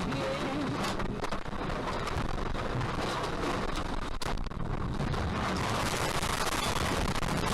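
Steady rumbling road and wind noise of a car driving, growing slightly louder over the last few seconds.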